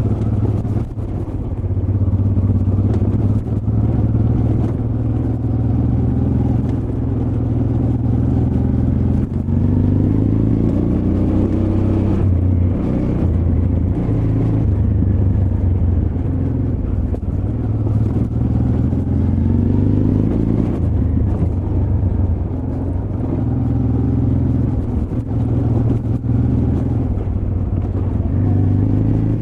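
Honda Transalp XL600V's V-twin engine running under way on a rough trail, its revs repeatedly rising and falling as the rider works the throttle.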